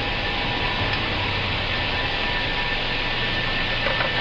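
Steady noise of an Airbus airliner's engines at takeoff thrust and the rushing air, heard inside the cockpit as the aircraft rotates and lifts off the runway.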